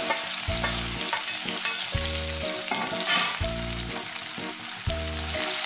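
Crushed shallots and chilli flakes sizzling steadily in hot coconut oil in a kadai, with a brief louder rush of sizzle about three seconds in. Background music with a low note about every second and a half plays under it.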